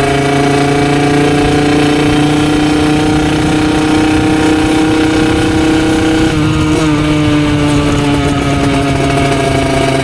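Beta RR50's 50cc two-stroke single, breathing through a Yasuni R2 exhaust, running steadily at high revs. Its note falls slowly, with a brief wobble in pitch about six and a half seconds in.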